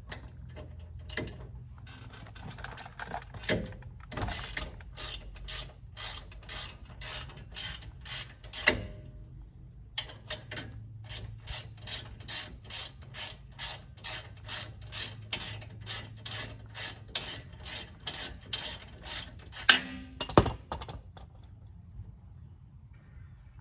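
Hand socket ratchet clicking steadily, about three clicks a second, as it is worked back and forth to undo the rear brake caliper bolts on a Jeep Gladiator's axle. A few louder metal knocks come about 9 s in and twice near the end.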